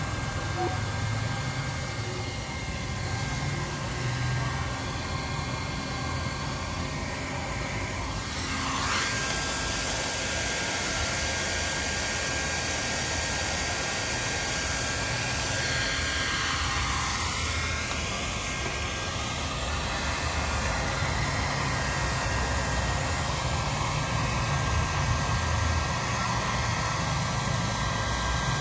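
Steady hum and hiss with a faint high-pitched whine, swelling briefly twice.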